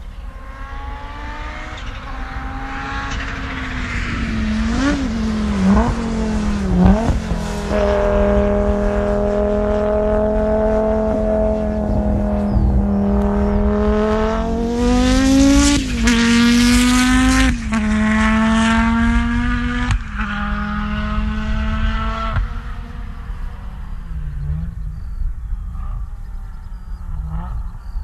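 Audi Sport Quattro S1 rally car's turbocharged five-cylinder engine running hard, its pitch dipping sharply at gear changes about five and seven seconds in and rising and falling through the middle. It is loudest a little past halfway, then drops back and quietens over the last few seconds.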